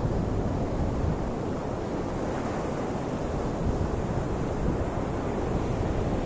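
Ocean surf: waves washing in a steady rush, with a brighter hiss swelling about halfway through as a wave breaks. Wind rumbles on the microphone underneath.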